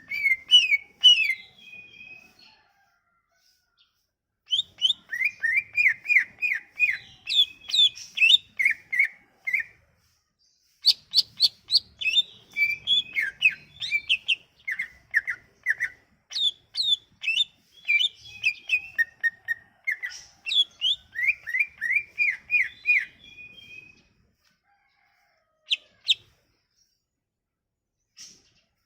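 Cucak ijo (green leafbird) song: fast, varied phrases of repeated chirps and whistled notes, broken by two short pauses. It is a gacor-style song of the kind used as a lure to set a silent cucak ijo singing.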